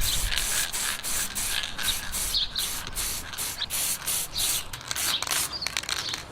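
Quick, rhythmic abrasive rubbing strokes on a part, about three a second, as in hand sanding or scrubbing. Birds chirp faintly in the background.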